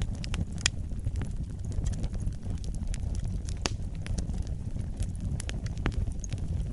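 Wood fire burning in a fireplace: a steady low rumble of flames with irregular crackles and sharp pops, the loudest a few seconds apart.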